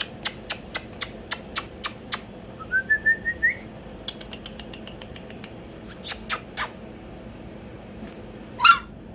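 Puppy whining: a thin, rising squeak a few seconds in and a short, louder yelp near the end, among runs of sharp clicks at about four a second.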